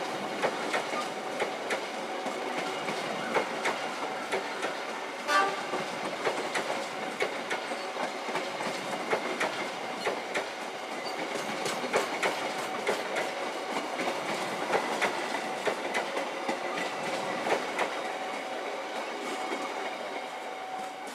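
Train of cargo wagons rolling past close by, with wheels clattering over rail joints in frequent sharp clicks and a steady tone running underneath.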